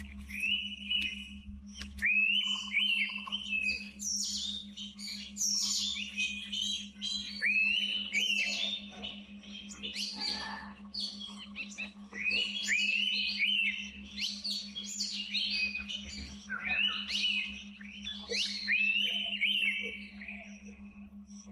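Indian pitta giving its whistled calls again and again, short rising-then-held notes often in pairs, with other birds chirping higher at the same time. A steady low hum runs underneath.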